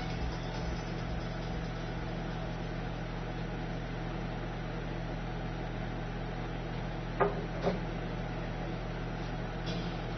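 A steady low mechanical hum, with two short knocks about seven seconds in, half a second apart.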